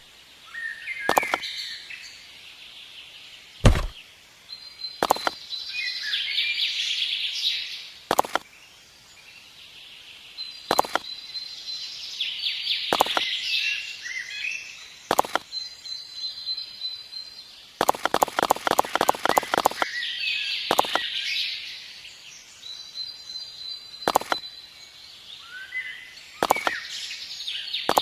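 Birds chirping and calling in repeated bursts, with sharp single clicks or knocks every couple of seconds and a quick run of about a dozen clicks near the middle.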